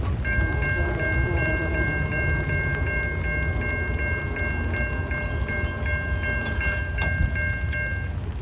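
Railroad grade-crossing warning bell ringing, struck about three times a second, over the low rumble of a train at the crossing and rain; the bell stops near the end.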